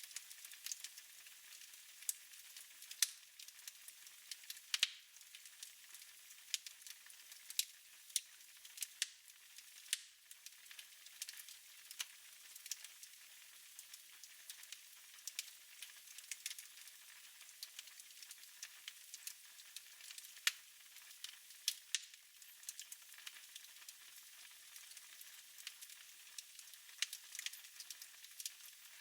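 Fire burning in a fireplace, crackling: irregular sharp pops and snaps, a few every second, over a soft steady hiss.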